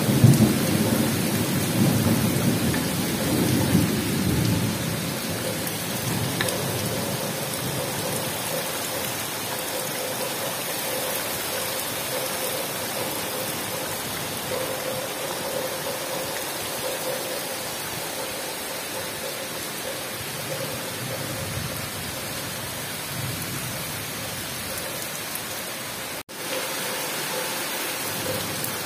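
Heavy tropical downpour on rainforest: a steady, even hiss of rain. A low rumble of thunder is heard in the first few seconds and fades away.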